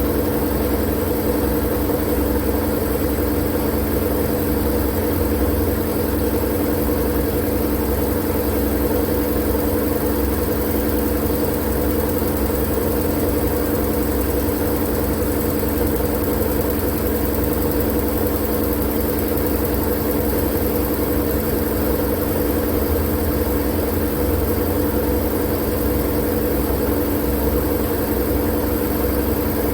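Steady, unchanging machine-like noise played as white noise for sleep: a constant hiss over a low drone and hum, with no breaks or changes.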